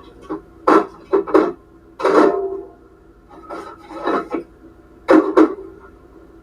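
A series of short rubbing and scraping noises, about eight at uneven intervals, with a faint steady hum underneath.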